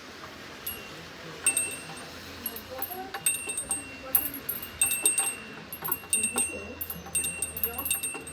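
Small high-pitched bells struck over and over in quick, irregular strokes, each stroke ringing briefly; the strokes begin sparsely and come thick and fast from about a second and a half in.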